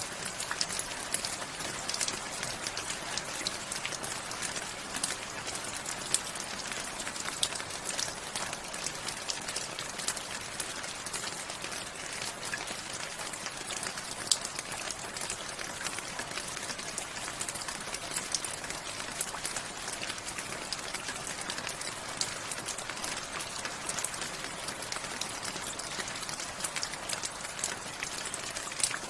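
Steady rainfall: an even hiss of rain with many individual drops ticking sharply on a surface.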